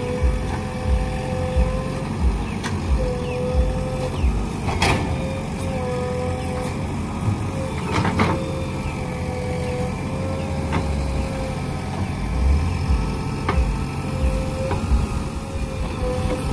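JCB backhoe loader's diesel engine running under load, with a steady whine over its low rumble. A sharp knock comes twice, about five and eight seconds in.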